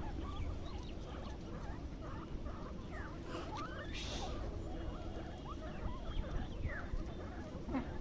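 Many short, high squeaks and whimpers from several puppies, overlapping and sliding up and down in pitch, over a low background rumble.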